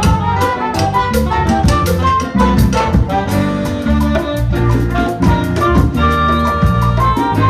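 Latin big band playing live: brass and saxophone section over piano, bass, drum kit, congas and timbales in a salsa rhythm.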